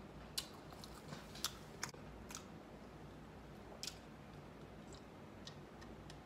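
A person chewing food close to the microphone: faint, scattered mouth clicks and small crunches, several in the first two seconds and one more about four seconds in.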